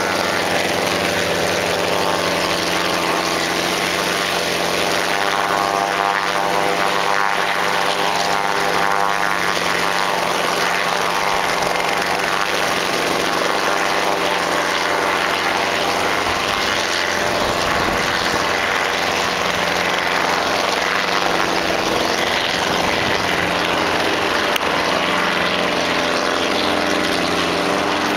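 Helicopter engine and rotor running steadily and loudly, a dense hum of many overlapping tones over a rushing noise.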